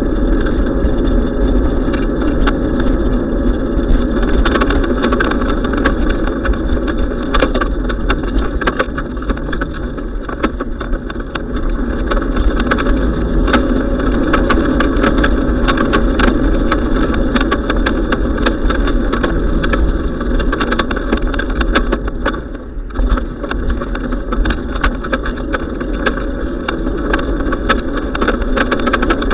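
Steady wind rumble on the microphone of a moving bicycle, with frequent small clicks and rattles; it drops briefly about two-thirds of the way through.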